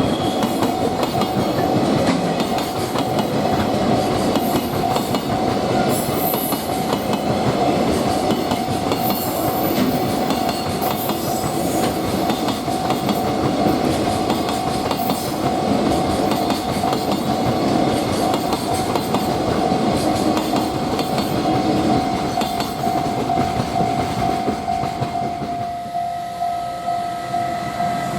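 Freight train passing at speed close by, its wagons clattering over the rail joints, with a level crossing alarm ringing as a steady tone throughout. The train noise thins into a pulsing clatter near the end.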